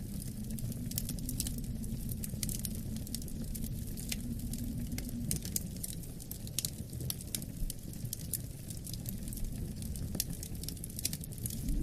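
Wood fire crackling, with many irregular sharp pops, over a low steady rumble of wind.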